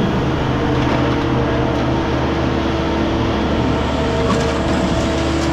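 Engine or machine running steadily: an even, unchanging drone with a low hum and a few steady tones.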